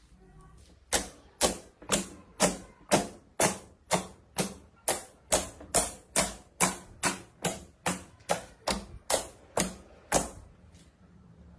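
A steady run of about twenty sharp, crisp clicks or crunches, evenly spaced at a little over two a second, starting about a second in and stopping near the end.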